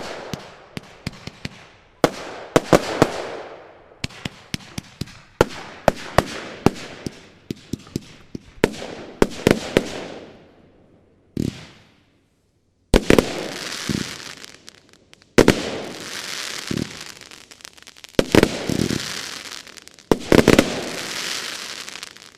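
Broeckhoff Backfire consumer firework battery firing: volleys of sharp shots and bursts, each trailing off into crackling. After a brief lull about twelve seconds in, a dense final salvo stops at the end.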